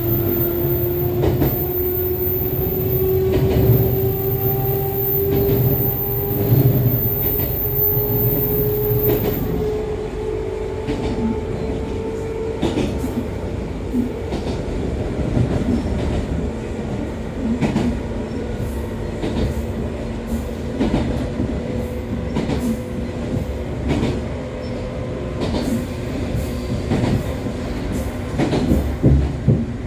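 Echizen Railway MC6101-series car running, heard from inside: the MT54 DC traction motors and gears give a whine that climbs slowly in pitch over about the first twelve seconds as the train gathers speed, then holds steady. Under it there is a low rumble and a regular clicking of wheels over rail joints. The car is one the recordist singles out for its abnormal running noise.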